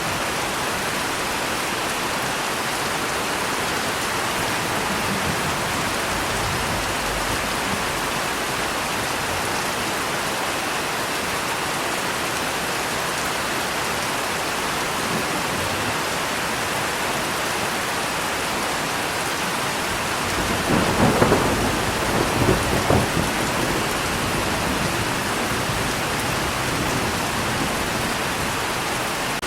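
Steady rain falling, with a low rumble of thunder about twenty seconds in that crackles and rolls for a few seconds before fading back into the rain.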